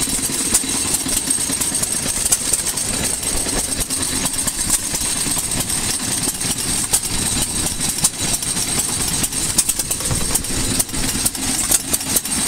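Antique stationary gas engines running, one driving a water pump and another a grinder, with a steady low hum and many sharp, irregular clicks and knocks.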